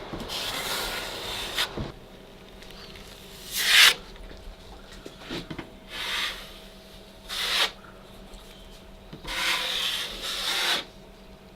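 Hand sanding of a dried joint-compound patch on drywall: a series of uneven rasping strokes, some short and some over a second long, knocking down the high edges.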